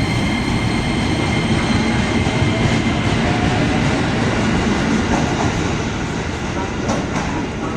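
Train rolling past at close range: a steady loud rumble of wheels on rails, with a few faint clicks over the rail joints, from a locomotive-hauled consist of retrofitted ex-Tokyo Metro 05 series EMU cars.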